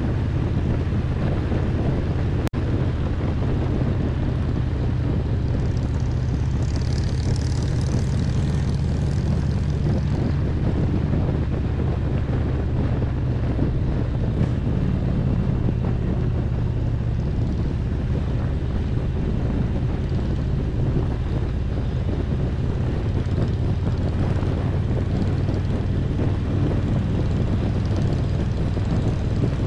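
Harley-Davidson Road Glide's V-twin engine running steadily while cruising at road speed. A brief high hiss comes in about six seconds in and fades a few seconds later, and a single sharp click sounds about two seconds in.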